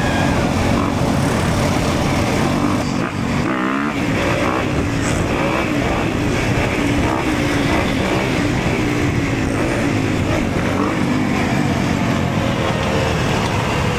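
Dirt bike engine running under way, its pitch shifting with the throttle, dropping and climbing again about three to four seconds in.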